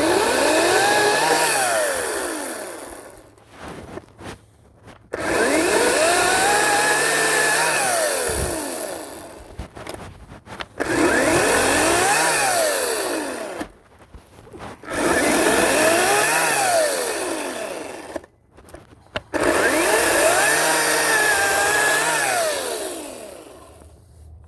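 Ryobi 40-volt cordless electric chainsaw running in five bursts of a few seconds each, with short gaps between them. In each burst the motor whine climbs as the trigger is squeezed and sinks as it is released, with the chain rattling and cutting into a log.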